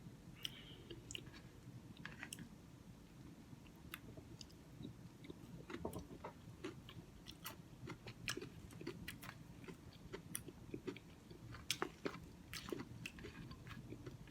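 Close-miked chewing and wet mouth clicks of a person eating Cookie Crisp oatmeal: many short, sharp smacks scattered irregularly over a faint low hum.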